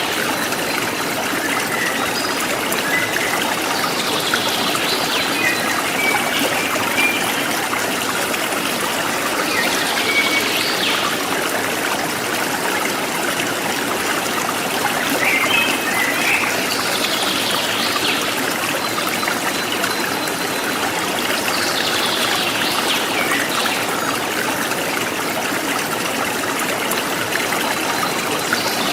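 A river stream flowing steadily over its bed, an even rush of running water.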